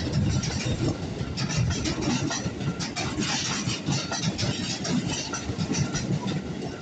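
A train passing a level crossing: a steady low rumble with irregular clacking of wheels over the rails.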